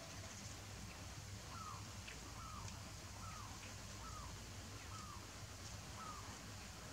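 A bird calling in the background: a faint series of six short falling notes, evenly spaced a little under a second apart, starting about one and a half seconds in, over a low steady outdoor hum.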